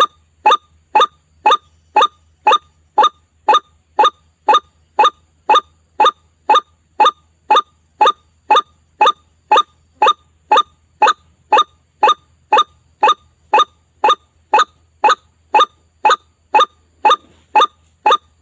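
White-breasted waterhen (ruak-ruak) lure call: one short call note repeated very regularly, about twice a second.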